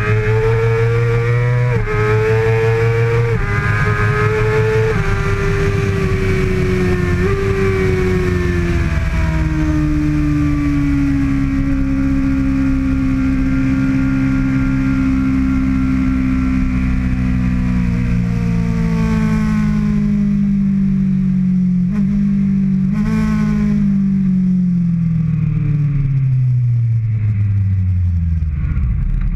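2013 Kawasaki ZX-6R 636's inline-four engine at racing speed: pitch stepping with quick gear changes over the first several seconds, then a long, slow fall in engine pitch as the bike slows, with two short upward blips of downshifts a few seconds before the end.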